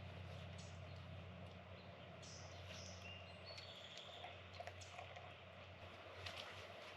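Quiet outdoor ambience: a steady low hum, with a few faint bird chirps in the middle and scattered small clicks.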